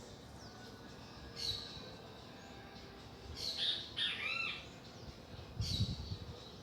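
Birds calling: a short call about a second and a half in, then a run of quick arching chirps around four seconds in, and another call near the end together with a low thump.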